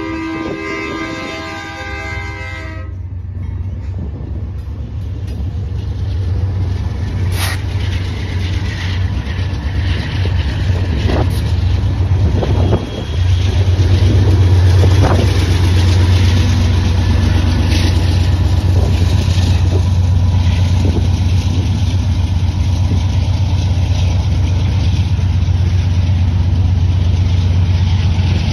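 Diesel locomotive air horn holding a chord that cuts off about three seconds in. Then the BNSF freight locomotives' deep engine rumble builds, loudest from about halfway as they pass close by, with occasional clanks. The covered grain hopper cars rumble steadily along the rails after them.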